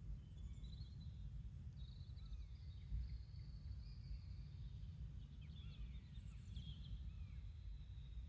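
Small birds chirping and twittering in many short, high calls over a steady low outdoor rumble.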